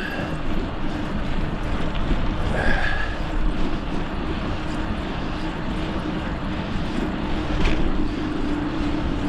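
Steady wind rush and rumble on the microphone from riding a bicycle at speed, with a constant low hum underneath. A brief faint tone comes about two and a half seconds in and a short tick near the end.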